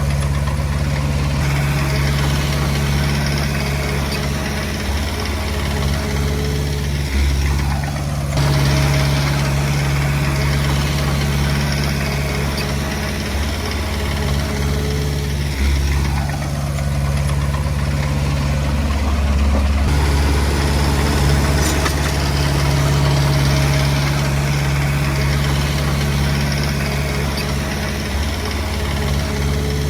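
Komatsu D20P bulldozer's diesel engine running steadily. Its note shifts every seven or eight seconds, and a falling whine comes with several of the shifts.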